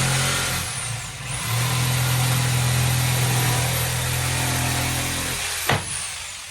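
Corded electric power tool running at a steady pitch. It stops briefly about a second in, spins back up, then switches off near the end and winds down with a falling whine, followed by a sharp click.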